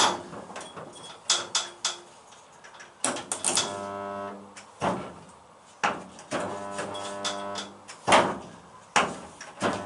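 Hand-lever resistance spot welder making spot welds: a clunk as the arms close, then a steady electrical buzz lasting about a second or more while the weld current flows, three times over, with sharp metal clacks in between.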